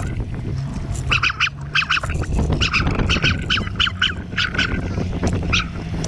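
Birds calling in a rapid series of short calls, two or three a second, over a steady low rumble.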